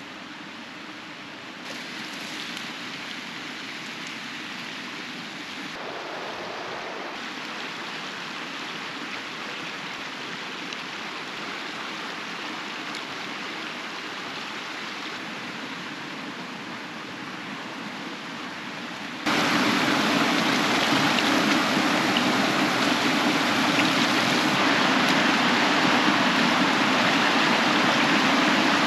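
Mountain stream rushing steadily over rocks, a continuous wash of water noise that becomes suddenly louder and closer about two-thirds of the way through.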